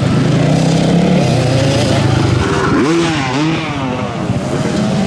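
Motocross bikes racing, their engines running hard and steady. About three seconds in, an engine's pitch dips and climbs again as it is throttled off and revved back up.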